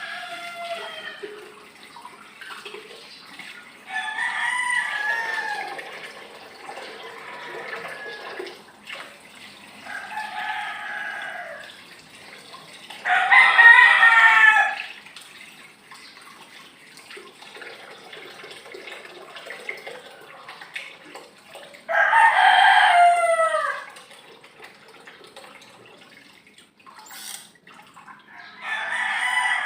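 A bird calling loudly again and again: about six drawn-out calls of one to two seconds each, each falling in pitch at the end, the loudest near the middle.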